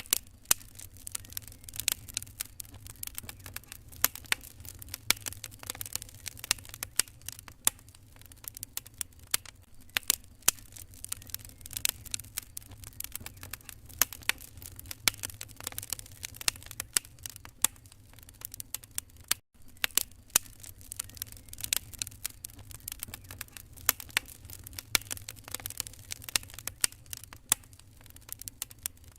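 Wood fire crackling in a fireplace: irregular sharp pops and snaps over a low steady rumble. The sound cuts out for an instant about two-thirds of the way through.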